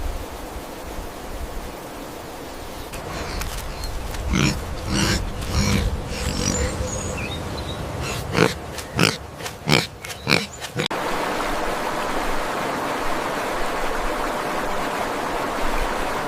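An animal's short grunting calls, about eight in two runs of four, over a steady rushing noise that gets louder about eleven seconds in.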